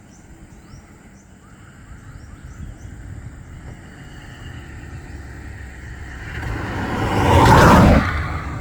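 A road vehicle approaching and passing close by: its rushing noise builds gradually, is loudest near the end, then starts to fade. Faint repeated high chirps from insects or birds run underneath.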